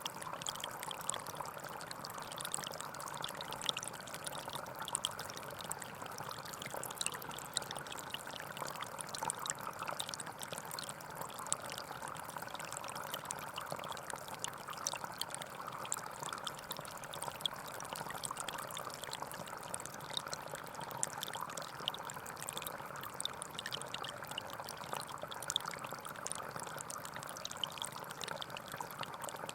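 Small forest stream flowing over stones, a steady splashing trickle with fine droplet patter on top.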